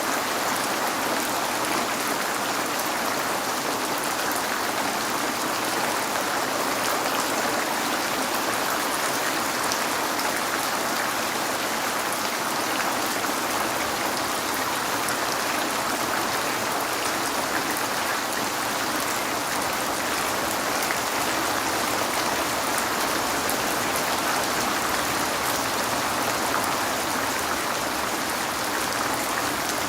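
Steady rain falling on a window: an even, unbroken hiss of many drops that holds at the same level throughout.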